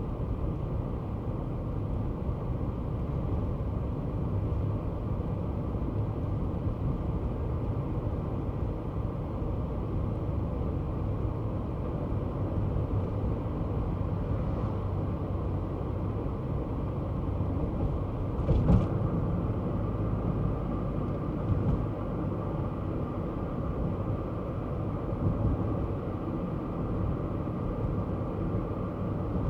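Kei car driving along, a steady low engine and road rumble. There is a single sharp thump about two-thirds of the way through, with fainter knocks after it.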